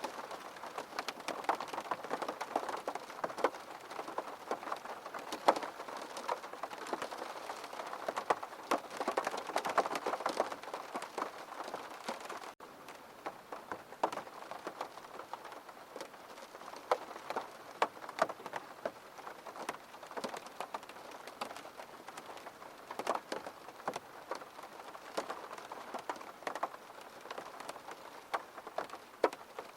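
Steady rain, with many separate drops striking a surface close by. About twelve seconds in, the rain abruptly gets quieter and thinner.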